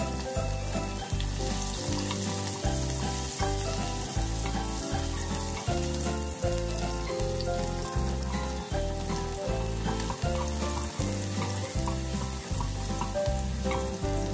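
Chopped onion and garlic sizzling steadily in hot oil in a pot as they sauté. Background music with a steady beat plays underneath.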